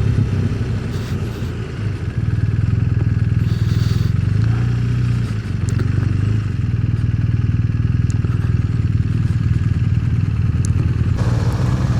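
Motorcycle engine running steadily, a low drone with a brief change in note about five seconds in.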